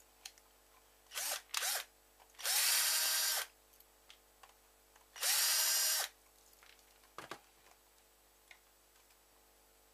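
Small electric screwdriver run in short bursts to back out a screw in a computer mouse's shell: two quick blips, then two runs of about a second each whose whine rises and then holds steady. A single light click comes near the end.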